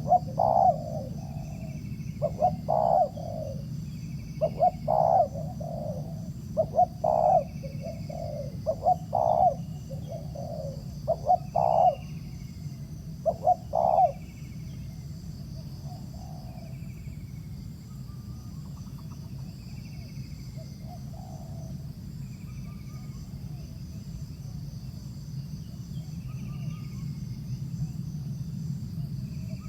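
Spotted doves cooing: repeated low coo phrases in groups of two or three every couple of seconds, loud up to about 14 s in, then fainter and sparser. A steady high insect buzz runs underneath.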